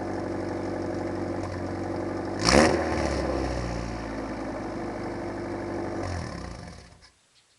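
1988 Mazda 323's four-cylinder engine idling through a 2.5-inch straight-pipe exhaust, with one quick blip of the throttle about two and a half seconds in that falls back to idle. The engine winds down and stops near the end.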